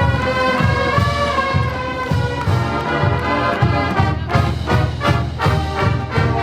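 Marching band playing: brass sustaining full chords over a steady bass-drum beat.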